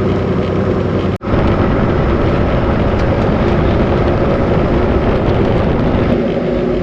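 Steady drone of a Volvo VNL 860 semi truck at highway speed, heard from inside the cab: engine hum mixed with road and wind noise. The sound cuts out for an instant about a second in, then carries on.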